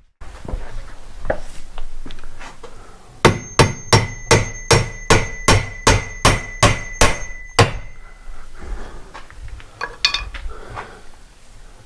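A hammer striking steel in a quick, even run of about fourteen blows, about three a second, each leaving a high metallic ring. Scattered smaller knocks and handling noise come before and after the run.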